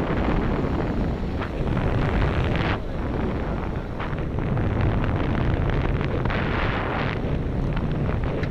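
Wind buffeting the microphone: a loud, continuous rumble with hissy gusts swelling up now and then.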